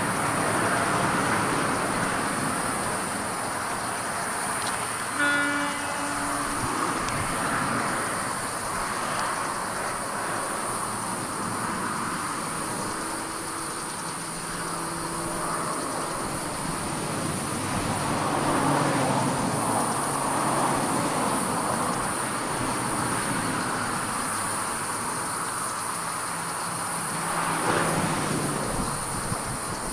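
Diesel passenger train heard at a distance as it runs into a station: engine and rail noise, with a short horn blast about five seconds in.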